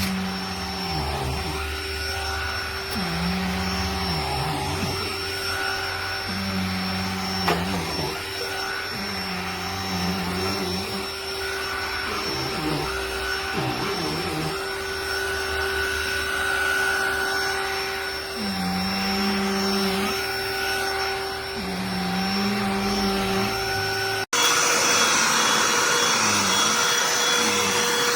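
Cordless handheld vacuum running with a steady motor whine, its low tone wavering at intervals. About 24 s in, it cuts suddenly to a louder vacuum with a different pitch.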